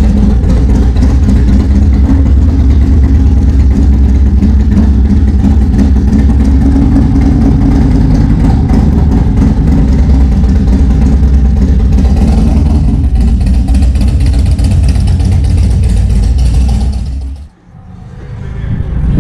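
A motorcycle engine running steadily at close range with a deep low rumble, cutting off suddenly near the end.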